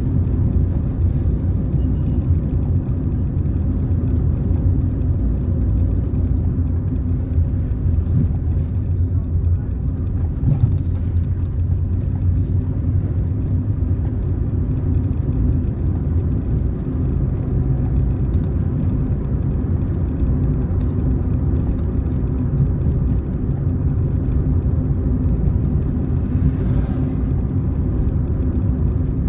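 Car driving along a road: a steady low drone of engine and tyre noise.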